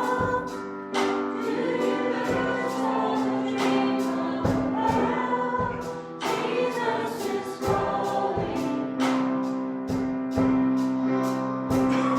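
A live church worship song: voices singing over band accompaniment, with held chords and a steady beat.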